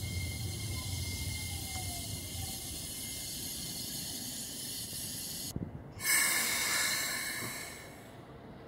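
Keikyu 1000-series electric train running along the station platform: a steady low rumble with hiss, and a faint falling motor whine in the first couple of seconds. After a cut, a sudden burst of hiss about six seconds in fades away over the next two seconds.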